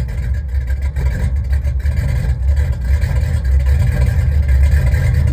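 Small-block V8 exhaust on a Chevy C10 pickup running steadily, a deep, even pulsing rumble.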